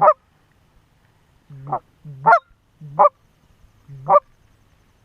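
Canada goose honks: about five loud two-note calls, each a short low note breaking sharply up into a higher one, a half-second to a second apart.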